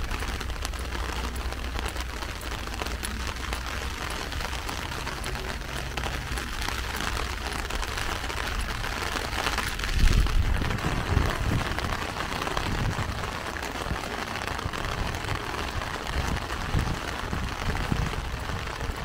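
Heavy rain drumming on an umbrella overhead, a steady dense hiss of drops. About halfway through, low thumps come in and the sound briefly gets louder.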